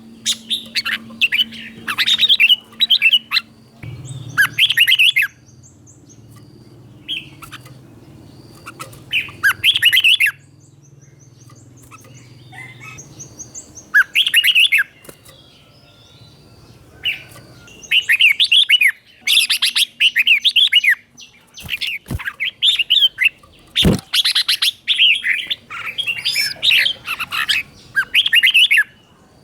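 Red-whiskered bulbul singing bursts of quick, warbling phrases with short pauses between them, the doubled 'เบิ้ล' song style. Two sharp clicks come about three-quarters of the way through.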